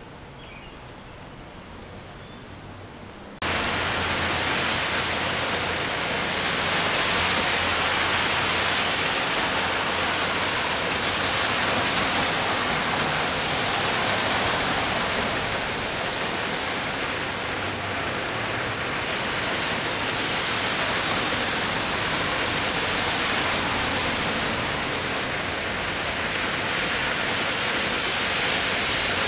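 Heavy rain falling, a loud, steady hiss that cuts in suddenly about three seconds in after a quiet stretch.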